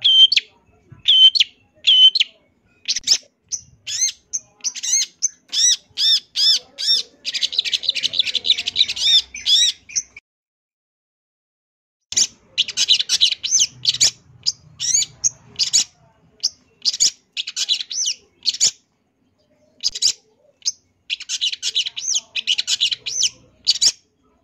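Long-tailed shrike (cendet) singing a varied song of quick repeated notes and fast, harsh chattering phrases, the kind filled with mimicked calls that keepers use as training song. It pauses for about two seconds midway, then resumes.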